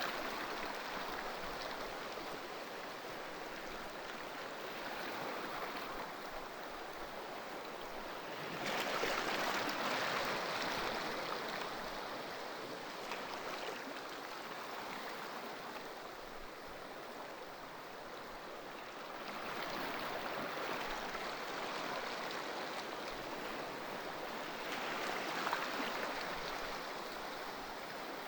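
Ocean surf: a continuous hiss of waves washing ashore, swelling louder three times as waves break.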